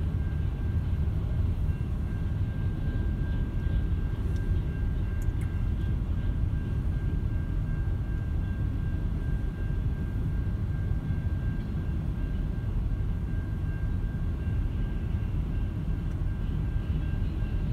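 Freight train cars rolling across a grade crossing, a steady low rumble heard from inside a stopped car, with a faint steady high tone running under it.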